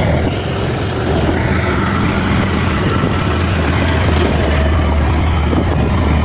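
Bulldozer's diesel engine running steadily under load, a constant low drone with clattering noise over it.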